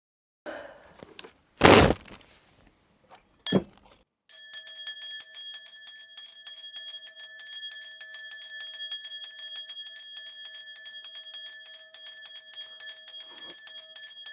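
Korean shaman's brass ritual bell cluster (bangul) shaken fast and continuously, a steady dense jingling that begins about four seconds in, after two loud knocks. The bells are rung to call up the spirits for a reading.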